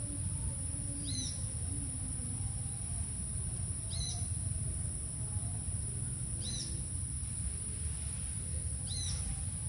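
A bird repeating a short high call four times, about two and a half seconds apart, over a steady high-pitched insect drone and a low rumble.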